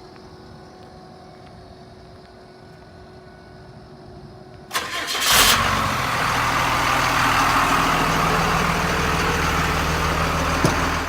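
A wide-body catering truck's engine is started about halfway through: a brief crank and catch, then it settles into a loud, steady idle. Before the start only a faint steady hum is heard.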